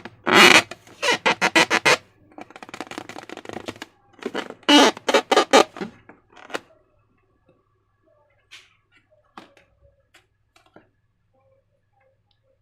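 Slime being squeezed and worked by hand, giving quick runs of wet squelches, about eight a second, through the first six seconds. After that come only a few faint clicks and taps.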